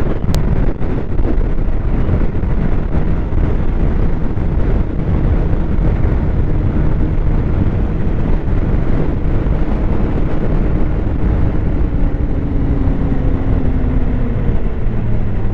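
Snowmobile engine running steadily while riding, under a loud low rumble of wind on the microphone; the engine's pitch eases slightly lower in the second half.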